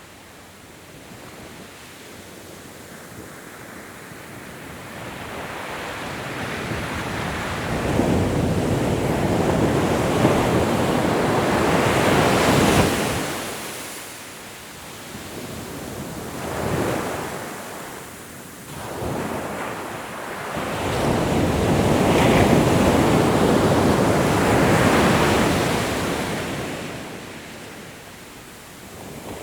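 Ocean waves breaking and washing on a shore, swelling and falling in slow surges, with a few louder breakers around the middle and in the last third.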